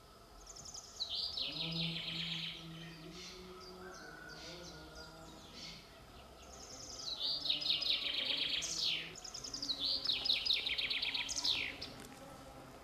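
A songbird singing three bursts of fast, repeated trilled notes, each song ending in a quick sweeping flourish.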